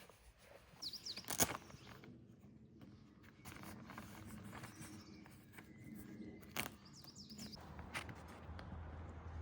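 A few sharp knocks and some rustling from handling things, the loudest knock about a second in, while a bird gives short high chirps twice, near the start and again near the end.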